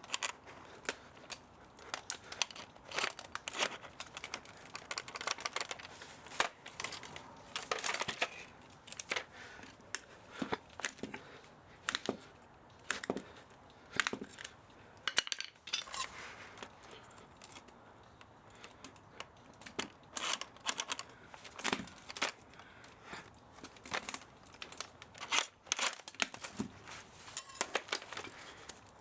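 Hand work dismantling an old spa pump motor for scrap: irregular clicks, small metallic clinks and short tearing, scraping noises as parts and copper winding are pulled apart.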